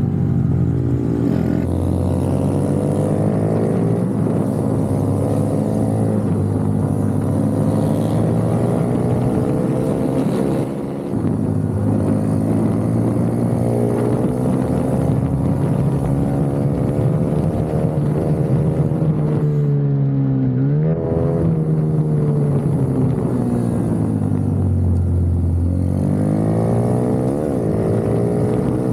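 Racing minibike engine heard from an onboard camera at full race pace, revs repeatedly climbing and falling as the bike accelerates and slows through the corners, with a sharp drop and quick climb back about two-thirds of the way in.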